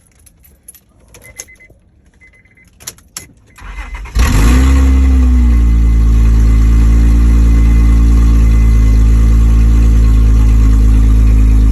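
A few small clicks, then a van engine cranks and starts about four seconds in, flares briefly and settles into a loud, deep idle. The odd exhaust sound is taken by the owner's dad and husband for a stolen catalytic converter.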